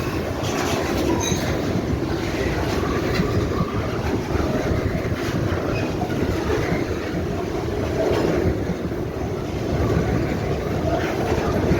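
Fuel train of tank wagons rolling past, a steady rumble of steel wheels on the rails with scattered clicks from the wheels over the track.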